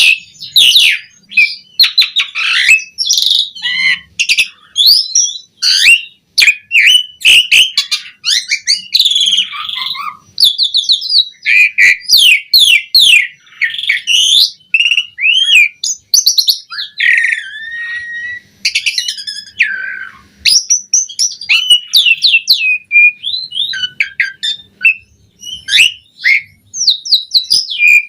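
Asian pied starling (jalak suren) singing a long, non-stop, varied song of rapid whistles, chattering trills, clicks and sliding notes with hardly a pause. It is the vigorous, phrase-rich singing that keepers call gacor.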